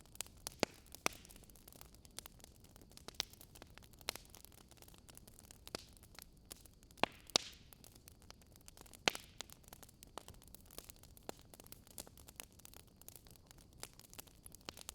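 Wood fire crackling: irregular sharp pops and snaps, a few louder ones near the middle, over a soft steady hiss.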